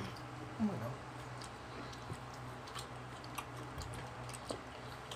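People chewing mango slices, with small wet mouth clicks and smacks, over the steady hum of an electric fan. A short voice sound comes under a second in.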